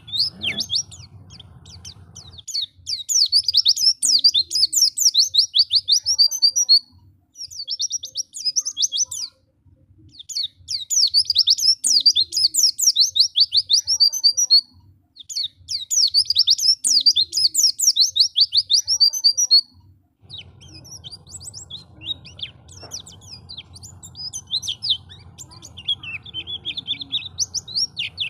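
White-eye (pleci) singing in long runs of fast, high twittering, each several seconds long with short breaks between. In the last third the song gives way to softer, scattered chirps.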